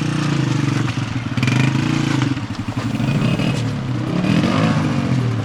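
Honda 125 motorcycle engine running at low speed, its note wavering up and down with the throttle.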